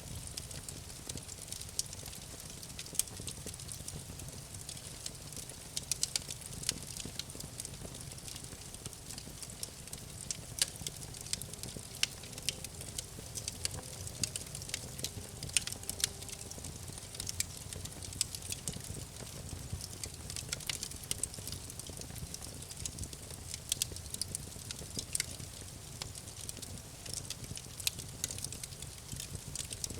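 Wood campfire burning: irregular sharp crackles and pops over a steady low rumble and soft hiss of the flames.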